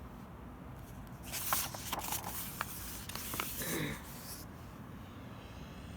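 Paper rustling as a book page is turned and handled, with a few sharp clicks, lasting about three seconds from just over a second in.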